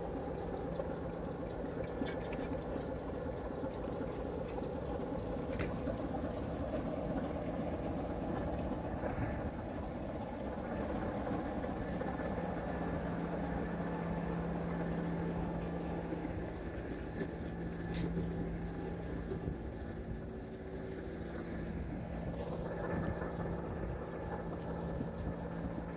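A heritage railway train running, heard from on board behind a Class 26 diesel-electric locomotive: a steady rumble of wheels and coach, with a low hum that is stronger through the middle stretch and a few faint clicks.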